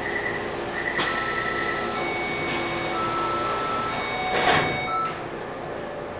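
Taipei Metro C301 train's doors closing: electronic warning tones switch back and forth in pitch about once a second, then the sliding doors shut with a noisy thump about four and a half seconds in.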